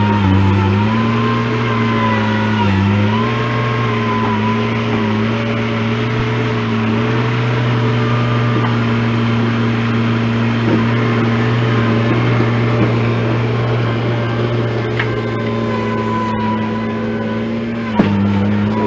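An engine running steadily at a working speed, its pitch dipping briefly about three seconds in and dropping after a click near the end.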